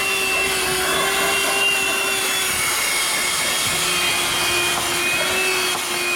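Audew 12V handheld car vacuum running steadily: a small motor's whine over the rush of air being sucked through it.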